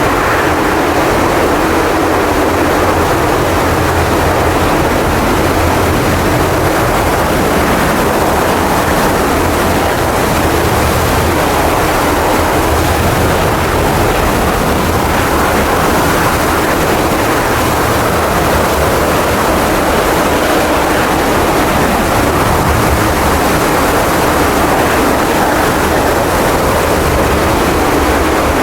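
Steady, even rushing noise of jet aircraft engines, with no change in pitch or level.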